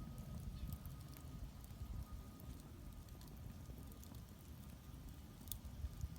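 Firewood burning in a traditional Korean agungi firebox: a steady low rumble of the fire with scattered small crackles and pops, one sharper pop near the end.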